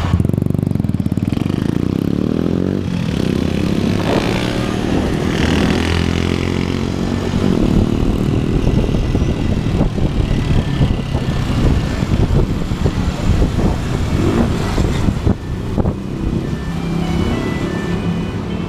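Motorcycle engine running under way in city traffic, its pitch rising and falling as the rider accelerates, eases off and changes gear.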